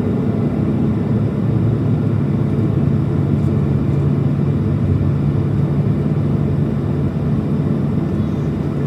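Boeing 737-700's CFM56-7B jet engines running, heard inside the cabin as a loud, steady low rumble with a steady hum.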